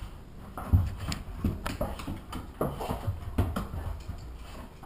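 Black Lab and Meyer's parrot scuffling in play: irregular soft thumps and scrabbling, with a few short faint squeaks.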